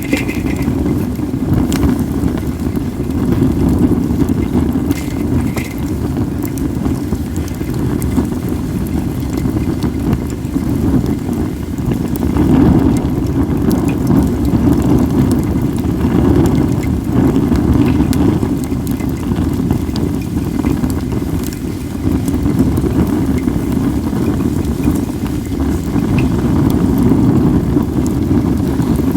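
Wood fire of acacia and mixed firewood burning, with scattered small crackles and pops over a steady low rumble of wind on the microphone.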